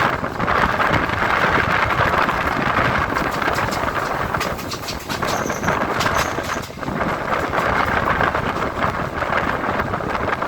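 Electric multiple-unit (EMU) local train running, heard from on board: a steady loud rumble and rush of air. A run of sharp clicks comes from about three to seven seconds in.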